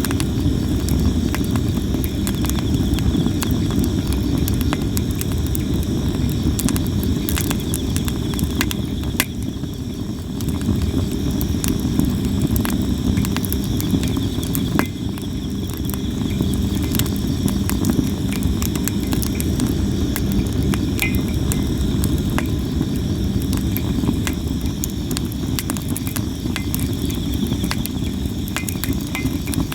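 Campfire of sawara cypress wood crackling and popping with many sharp snaps over a steady low rumble, while insects chirp in a steady high trill.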